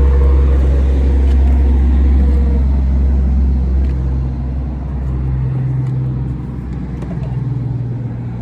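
A car engine running close by, a steady deep hum whose lowest part drops away about five and a half seconds in.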